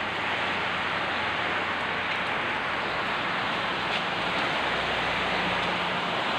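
Heavy rain pouring steadily, an even dense hiss.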